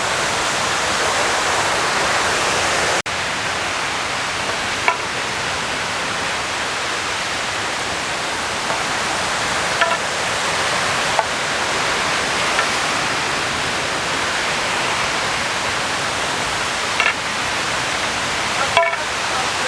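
Steady, dense rushing of the cascading water of Aruu Falls on the River Agago, with one sudden momentary break about three seconds in.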